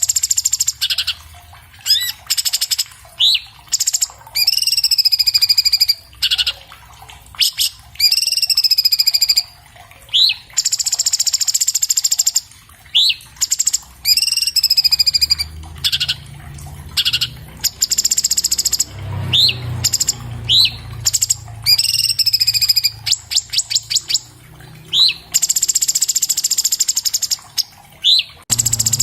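Orange-bellied leafbird (cucak cungkok) singing a fast, varied song: short rising whistled notes alternate with harsh buzzy chatter and longer downslurred whistles, with a quick run of clicks about two-thirds of the way through.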